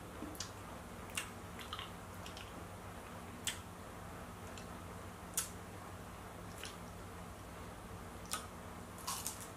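Mouth sounds of a person eating fruit: scattered wet clicks and smacks, about one every second or two with a short cluster near the end, over a low steady hum.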